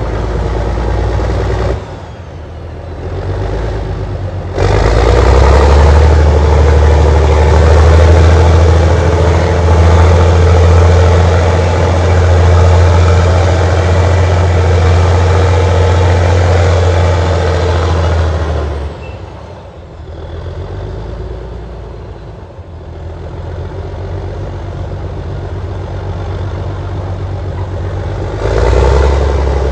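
Allis-Chalmers HD-21 crawler dozer's diesel engine running under working load, its note swelling and easing: loud from about five seconds in until about nineteen seconds, lower for a stretch, then loud again near the end.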